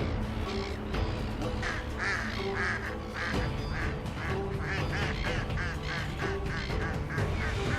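Birds calling, a long run of short repeated calls at about three a second, starting about two seconds in, over steady background music.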